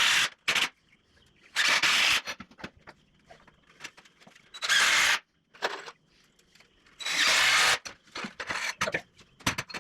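Power drill running in short bursts, about five of them, each from a fraction of a second to nearly a second long, with light knocks and ticks of handling between them.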